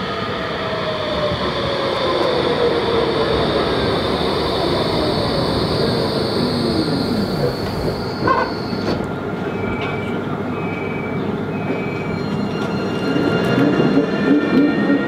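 Tram running at a stop: the electric drive whines with tones falling in pitch over the first half over a rolling rumble, then three short beeps a little past halfway, and a whine rising in pitch near the end as a tram picks up speed.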